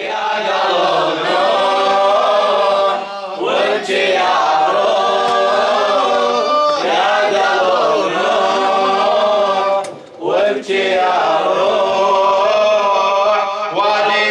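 Unaccompanied male voices chanting a Shia Muharram lament (latmiya) in long, drawn-out melodic lines, with short breaks about 3 seconds and 10 seconds in.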